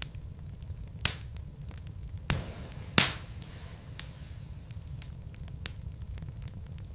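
Wood logs burning in a fireplace: a steady low rumble of the fire with scattered crackles and sharp pops. The louder pops come about a second in, again past two seconds and at three seconds, the last the loudest, followed by a few lighter ticks.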